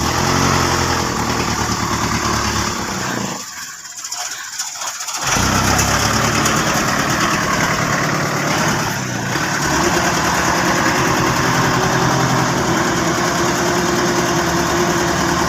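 An old dump truck's engine is restarted after stalling. It runs for about three seconds, dies away, then catches again about five seconds in and keeps running steadily.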